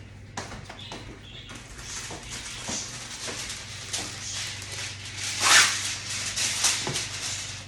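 Aluminum foil crinkling and rustling as it is handled over a baking pan, with many small crackles and a louder crumple about five and a half seconds in.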